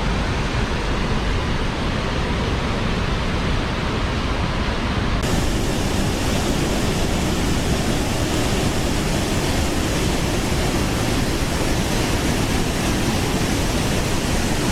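Waterfall rushing in a steady, even roar of falling water. About five seconds in, the sound turns abruptly brighter and hissier.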